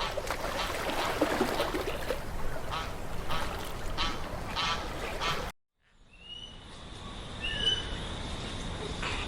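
Waterfowl calling with repeated, overlapping honks. It cuts off abruptly about five and a half seconds in, and after a short gap, short high whistled bird chirps follow over a steady high tone.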